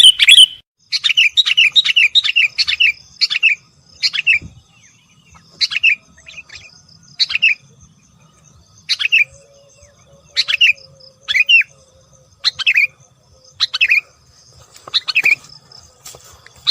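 Sooty-headed bulbul (kutilang) calling: a quick run of short, bright chirps for the first few seconds, then single chirps about once a second.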